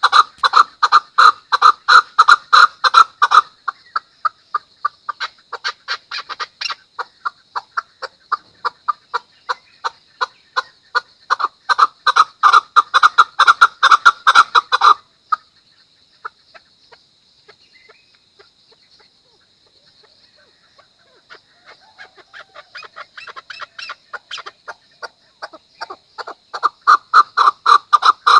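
Chukar partridge calling: rapid runs of short clucking notes, several a second, loud at the start, quieter for a while, loud again about halfway, then dying away for several seconds before building back up near the end. A faint steady high tone runs underneath.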